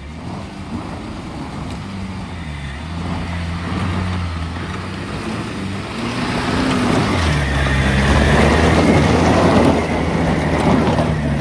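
Off-road vehicle engine running under load, its pitch holding steady and stepping now and then, with rough tyre and track noise that builds and is loudest about eight to ten seconds in.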